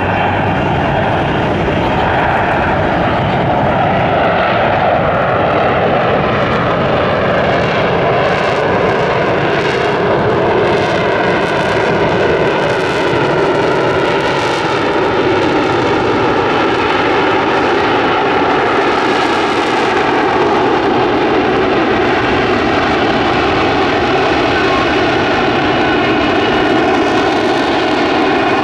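F-35B Lightning II in hover mode, its F135 jet engine and shaft-driven lift fan running steadily and loudly. A dense jet noise carries whining tones that drift slowly down in pitch, with a shimmering, phasing quality in the upper range partway through.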